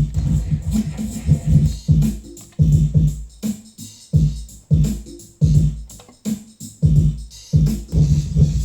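Electronic music from a Korg Karma keyboard workstation played through an Eventide H3000 effects processor: a loud, bass-heavy pattern of short repeating low notes and beats that cuts out abruptly several times.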